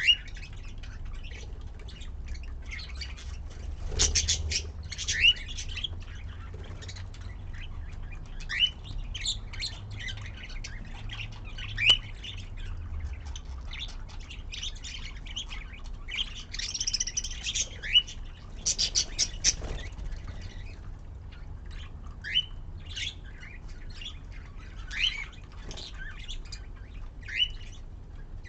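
Budgerigars chirping and chattering in many short, quick rising calls at irregular intervals, over a steady low hum.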